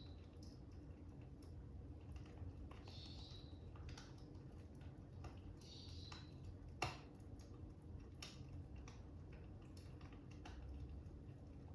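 Stylus tapping and writing on a tablet's glass screen: faint scattered clicks and short scratchy strokes every few seconds, with one sharper click about seven seconds in. A fire crackles softly behind, over a low steady rumble.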